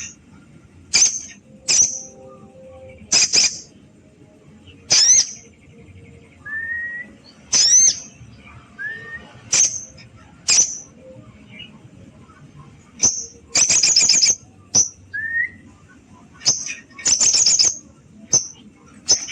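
Sogon bird calling: loud, sharp, high call notes repeated about every one to two seconds, with two longer rattling calls in the second half and a few faint short rising whistles between them. It is the fighting call that keepers play to make a caged bird answer a rival.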